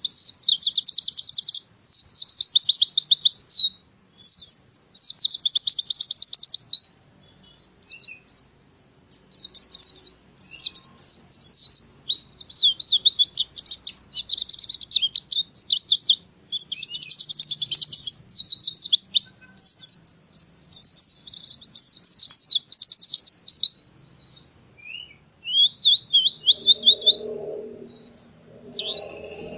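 White-eye (pleci) singing energetically: long runs of fast, high trilling and twittering phrases with short breaks between them. A faint low sound comes in under the song near the end.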